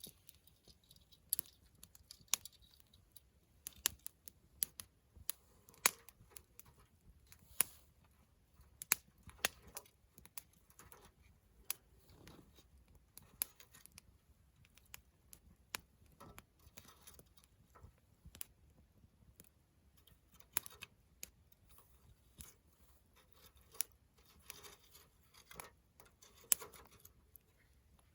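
Wood fire crackling, with irregular sharp pops and snaps, a few a second, over a faint background.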